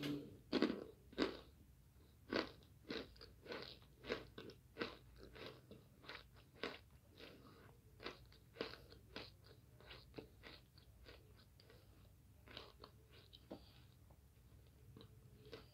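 A person biting into and chewing a crunchy oven-baked starch chunk: a quick run of crisp crunches, loudest in the first couple of seconds and getting softer as the mouthful is chewed down.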